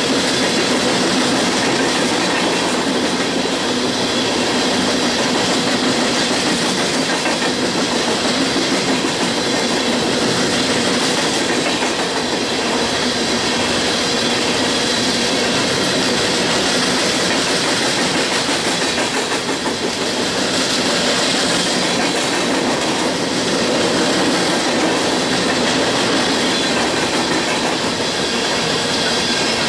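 A train of empty steel coal hopper cars rolling past at trackside: a steady clatter of wheels over the rails.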